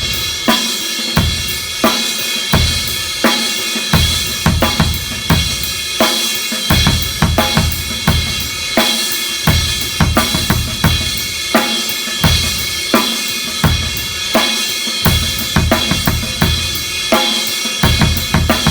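Drum kit playing a heavy rock groove: a crash cymbal ridden on steady strokes keeps up a continuous wash, over a simple bass drum pattern and snare backbeat.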